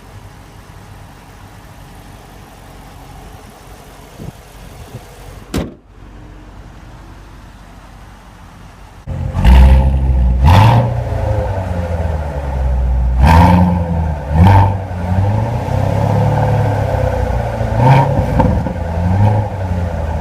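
Car engine running with a low steady sound that stops with a click about five and a half seconds in. From about nine seconds, loud engine revving in repeated blips.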